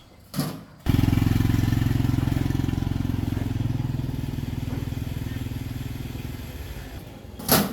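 A small engine starts suddenly and runs steadily, fading slowly over several seconds, with a brief sharp noise near the end.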